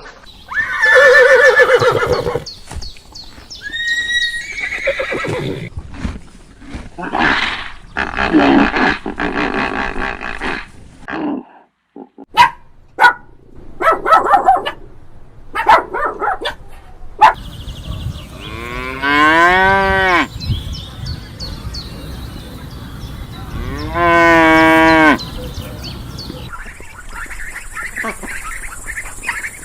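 A run of farm-animal calls, mostly cattle mooing, with two long, loud moos in the second half that rise and then fall in pitch.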